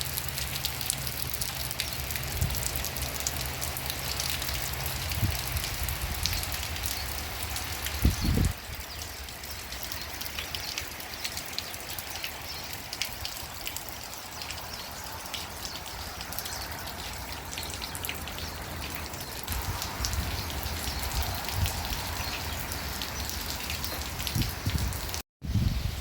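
Rain falling steadily, with many separate drops ticking through it. A low rumble sits under it in the first few seconds, and there is a brief low thump about eight seconds in.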